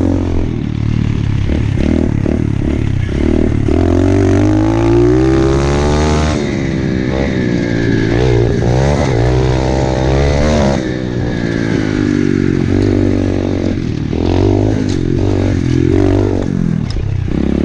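Pit bike's small single-cylinder engine being ridden, revving up and down with the throttle so its pitch climbs and falls again and again, with some rattling clatter near the end.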